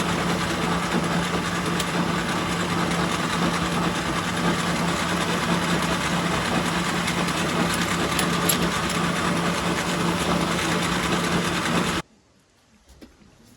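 1944 Logan 210 metal lathe running steadily with a constant hum. It cuts off suddenly near the end.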